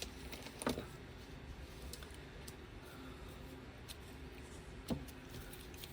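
A few light clicks and knocks of objects being handled on a work surface over a faint background, the loudest one about five seconds in.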